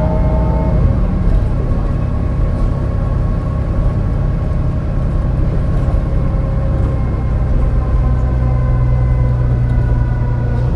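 MAN NL202 CNG bus engine running steadily under load, with whining lines from the ZF five-speed automatic gearbox. The engine note shifts about a second in, and again near the end. The engine has a bad misfire.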